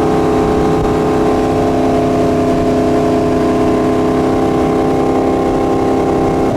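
Centurion Fi25 wake boat's inboard engine running steadily at towing speed, a constant drone that holds one pitch throughout.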